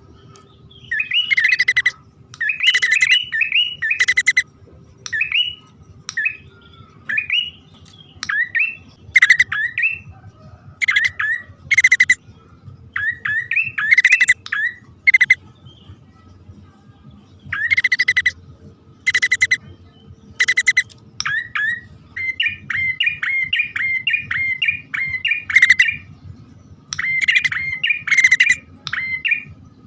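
Prenjak (prinia) calls from a male and a female: rapid runs of sharp chirps and harsh scolding notes, coming in bursts of a second or two with short gaps between them.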